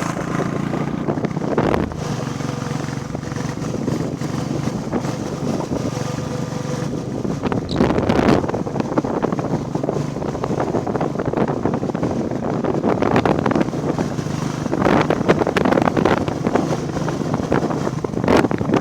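Royal Enfield Classic 350's single-cylinder engine running steadily on the move, with wind buffeting the microphone in gusts.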